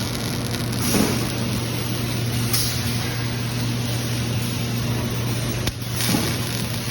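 Machinery on a robotic welding line running with a steady low hum, broken by several short hisses of air.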